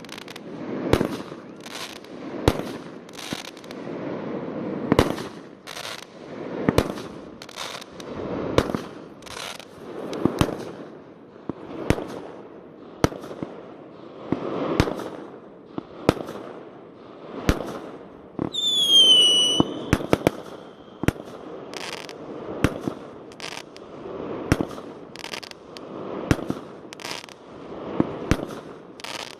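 Fireworks display: a continuing series of sharp bangs, about one a second, each trailing off in a rumbling echo. A short falling whistle sounds about two-thirds of the way through.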